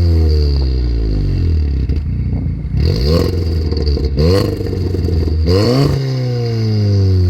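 Decatted Mk7 VW Golf R exhaust, its 2.0-litre turbocharged four-cylinder being revved: the revs fall away from a blip, then it is blipped twice more, about three seconds apart, with sharp pops as the revs peak and drop.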